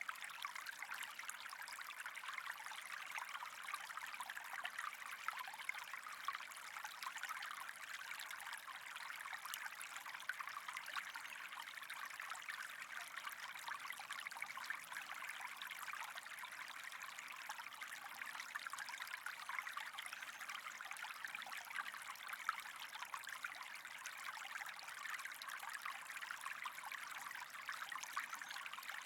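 Steady trickling, running water, an even fine splashing without pauses or changes.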